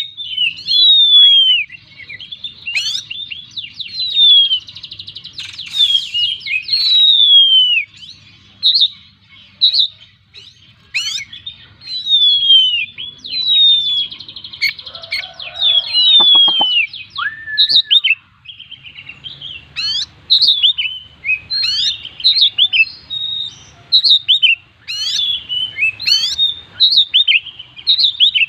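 Oriental magpie-robin (kacer) singing non-stop: a loud, varied song of clear whistled phrases, many sliding downward, mixed with rapid trills and chatter, including mimicked calls of other birds.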